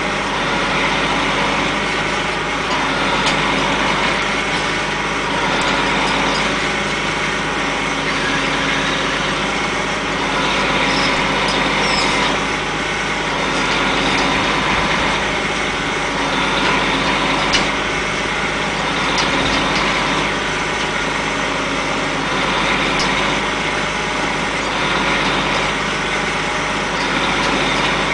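A machine's engine running steadily, with a few faint clicks over it.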